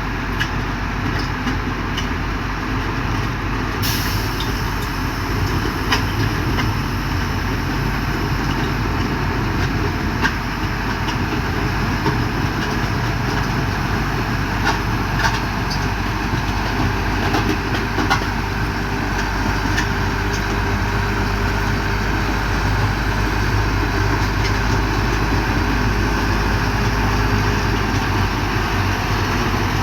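Heavy diesel machinery of an asphalt paving crew running steadily, a deep engine rumble with scattered clanks and knocks.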